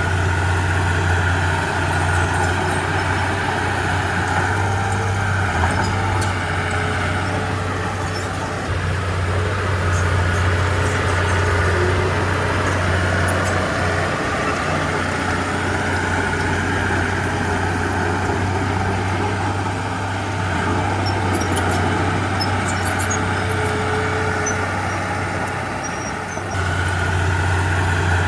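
Diesel engine of a Komatsu D31P crawler bulldozer running steadily as it works, a low drone that swells and eases a little now and then.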